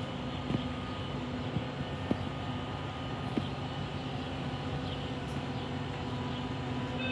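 A stopped Metra bilevel commuter train humming steadily, with a few faint clicks.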